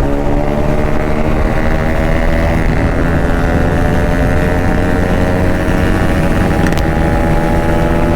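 Bajaj Pulsar RS200's single-cylinder engine held at high revs under hard acceleration, its pitch rising slowly, with heavy wind and road rumble.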